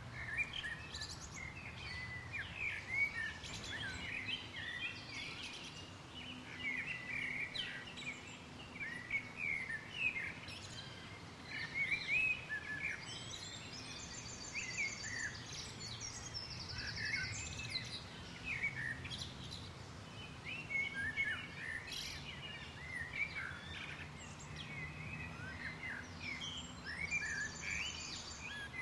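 Birds chirping and twittering continuously, with a few short, rapid high trills, over a faint steady low hum.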